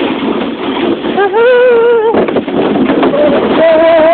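Two long, drawn-out hooting yells from a person: a wavering one about a second in and a higher held one near the end that drops off. They sound over the steady rushing noise of a sled being towed behind a pickup truck.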